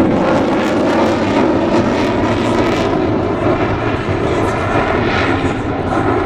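Fixed-wing airplane engine noise, a loud, steady rushing drone with no clear pitch.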